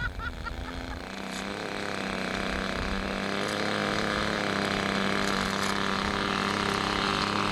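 Small model-airplane engine buzzing at a steady pitch, growing louder over the first few seconds and then holding level.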